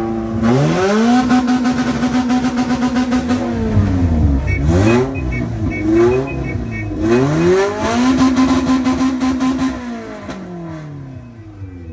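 Custom Jeepney's engine being revved: it climbs and holds at high revs for a couple of seconds, drops, is blipped several times, then is held high again before falling back toward the end.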